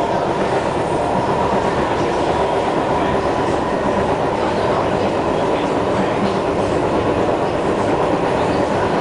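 SMRT C151 train's traction motors running with a steady, unusual set of motor tones over the constant rumble of wheels on track, heard inside the car. This odd motor sound is peculiar to this one train set, 047-048.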